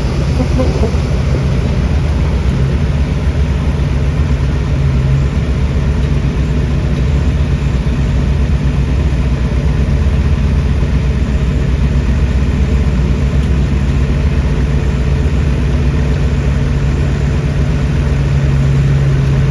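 Diesel engine of heavy construction machinery running steadily with a low drone. The drone grows a little stronger near the end.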